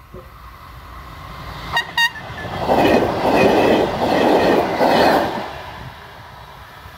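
Electric multiple unit passenger train gives two short toots of its horn, then passes close by at speed with the loud rumble and clatter of its wheels on the rails. The noise dies down about five seconds in.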